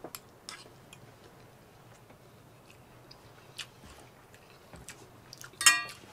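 A man chewing a mouthful of tender catfish and rice, with a few faint clicks of a metal spork against a cast iron skillet. A short, higher-pitched sound comes near the end.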